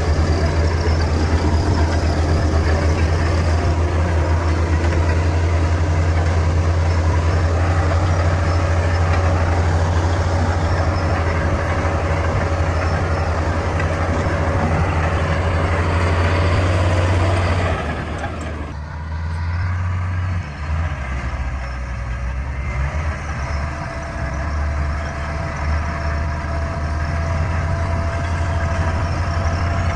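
Bulldozer's diesel engine running with a steady heavy hum; it drops in level a little over halfway through and builds back up near the end.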